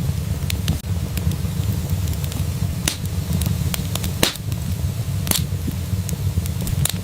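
Wood fire burning in a fireplace: a steady low rumble with scattered sharp crackles and pops, the loudest pops a little after four seconds and about five seconds in.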